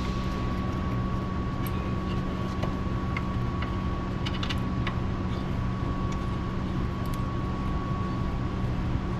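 Steady droning hum of shop machinery with a constant tone in it, and a few light metallic clicks and taps scattered through, as a brake caliper bracket is fitted over the rotor onto the steering knuckle.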